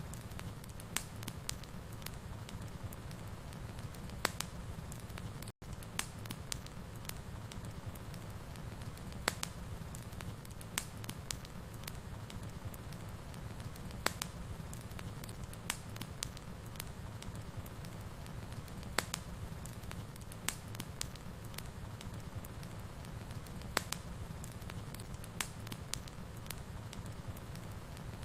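Wood fire burning in a fireplace: a steady low rumble with irregular sharp crackles and pops, roughly one a second. The sound cuts out for an instant about five and a half seconds in.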